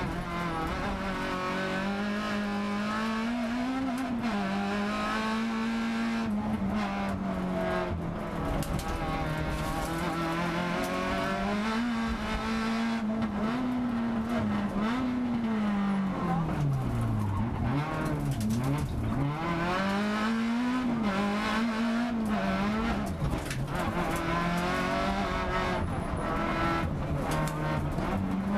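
Rally car's engine heard from inside the cockpit at full stage pace, the revs rising and falling again and again through gear changes and corners. The revs dip low and climb back a couple of times past the middle.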